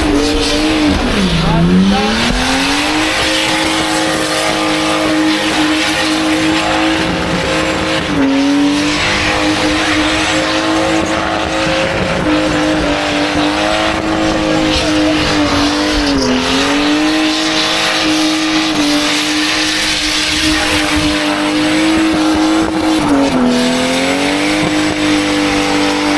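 A car doing a long burnout on a skid pad: the engine is held at high, steady revs while the spinning tyres squeal. The revs dip and climb back about four times, roughly every seven seconds.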